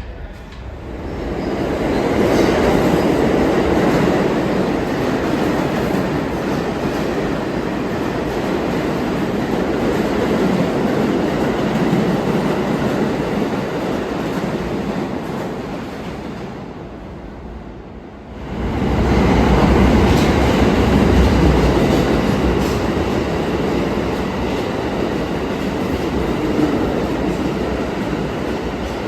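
New York City subway trains running through the station, wheels clattering over the rail joints. The first train's noise builds over a couple of seconds and eases off about two-thirds of the way in. Then a second train comes in suddenly and just as loud.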